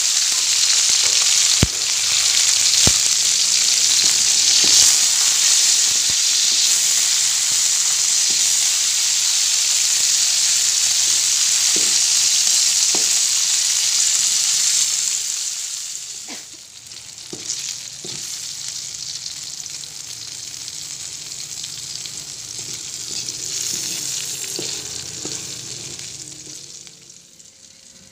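Chillies, shallots and shrimp paste sizzling as they fry in a little oil in a wok, with a few taps of a metal slotted spoon stirring them. The sizzle is loud and steady at first, drops to a softer level about halfway through, and fades out near the end.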